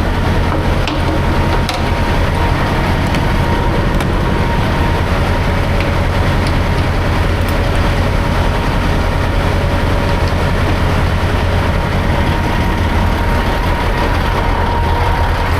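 Semi truck's diesel engine and road noise heard from inside the cab while driving: a steady low drone with a faint steady whine above it.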